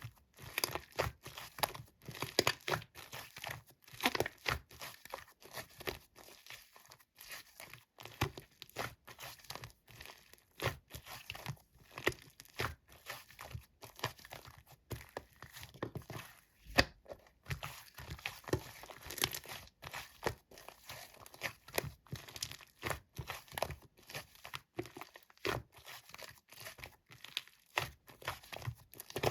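Slime being squished, pressed and stretched by hand, giving a quick, irregular run of sticky clicks and pops, several a second.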